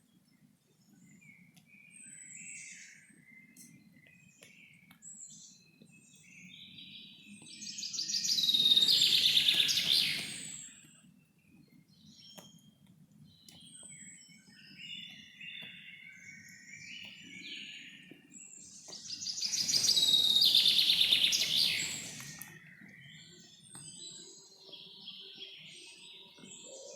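Wild birds singing: two loud, fast-trilled song phrases of two to three seconds each, swelling and fading, one about eight seconds in and another about twenty seconds in. Between them come fainter chirps and short high notes from other birds, over a low steady background rumble.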